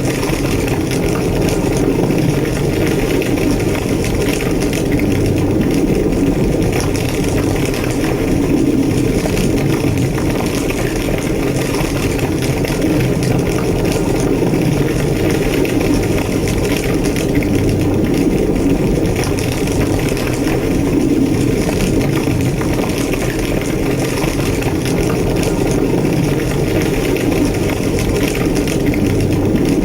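A large burning building's fire roaring steadily and deeply, with crackling.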